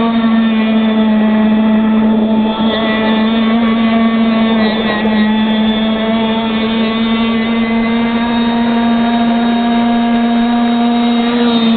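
Stock Zenoah 260 26cc two-stroke engine of a gas RC catamaran running flat out at a steady high pitch.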